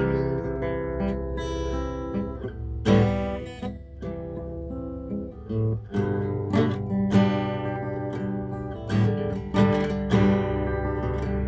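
Acoustic guitar strummed in chords, a stroke across the strings every second or so with the chord ringing on between them.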